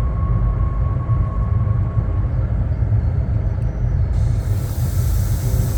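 Steady low rumble of a moving train heard from on board, with a faint steady tone over it at first and a high hiss joining about four seconds in.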